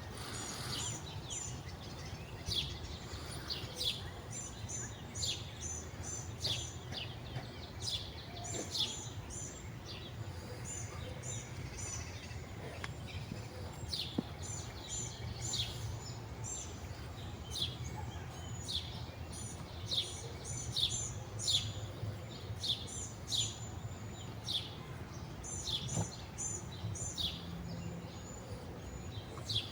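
Small birds chirping: many short, high, downward-sliding notes and quick clusters of higher chirps repeated throughout, over a steady low hum.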